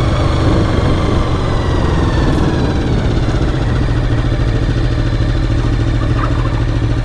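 Honda VFR750's V4 engine dropping in pitch over the first few seconds, then running at a steady idle.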